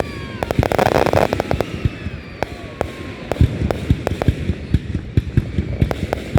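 Fireworks going off: many sharp bangs and pops in quick succession, with a dense crackling burst about a second in.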